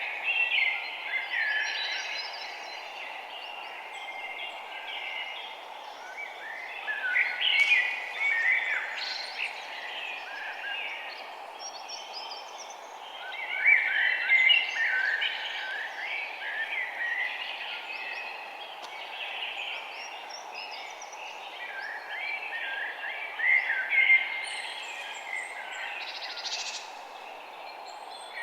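Several small birds chirping and twittering in busy spells of quick, high calls, with quieter stretches between. A steady low hiss of background noise runs underneath.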